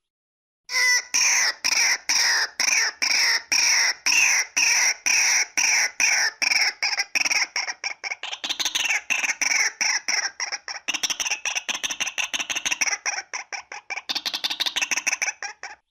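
Female white-breasted waterhen calling: a loud series of harsh repeated notes, about two or three a second at first, then quickening into a rapid chatter from about eight seconds in, stopping just before the end. A recorded lure call of the kind used to draw waterhens into a trap.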